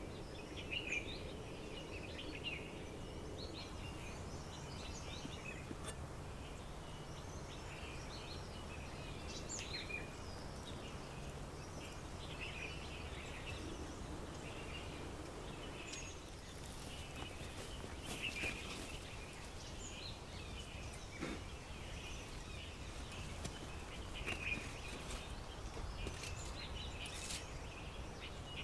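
Many small birds chirping and calling at once, short high notes following one another closely over a steady low background noise, with an occasional faint click.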